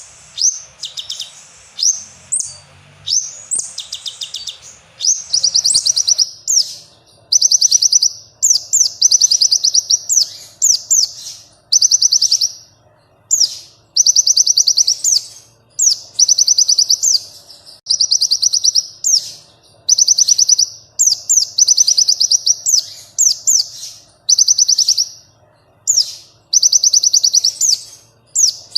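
Konin songbird singing: high, rapid trilled phrases about a second long, repeated every one to two seconds with quick sweeping chirps between them. A faint steady hum lies underneath.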